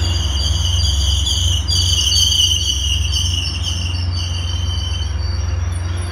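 Caltrain double-deck passenger cars rolling past as the train pulls in, the wheels squealing in a high, wavering tone over a steady low rumble. The squeal fades out about five seconds in.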